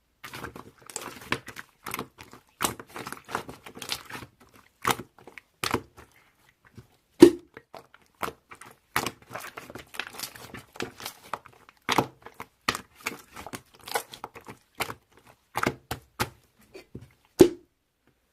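Irregular crinkling, crackling and tapping from something being handled close up, with a few louder knocks, the loudest about a third of the way in and near the end.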